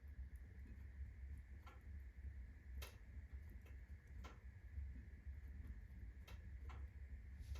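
Birch logs burning in a fireplace at full blaze, crackling faintly: a handful of sharp, irregular pops over a steady low rumble.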